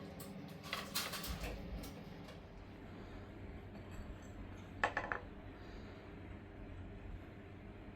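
A few clattering knocks of small hard objects being handled, in a cluster about a second in and one sharp knock near the middle, over a steady low hum.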